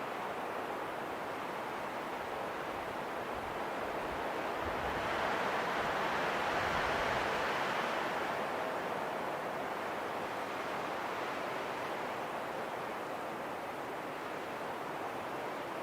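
Wind blowing in a steady rush, swelling in a gust about halfway through and then easing back.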